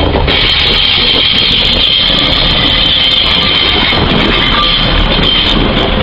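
Pacer diesel railbus running past at close range, its underfloor engine and wheels on the rails giving a steady rumble. A steady high-pitched hiss sits over it and fades about five and a half seconds in as the train clears.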